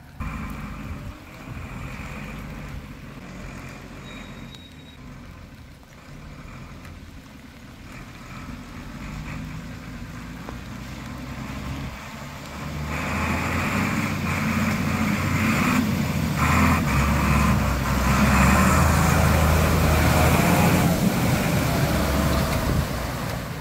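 Off-road vehicle engine pulling slowly through a flooded, muddy track, then working harder from about halfway as the vehicle pushes through deep water, with loud splashing and churning for several seconds before easing off near the end.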